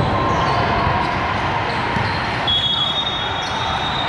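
Ball impacts echoing in a large, busy convention hall during indoor volleyball play, with crowd chatter underneath.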